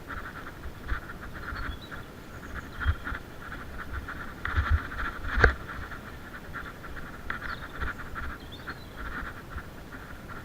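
Mountain bike rattling and clicking rapidly while riding fast over a rough forest trail, with low thumps from bumps and a sharp knock about five and a half seconds in.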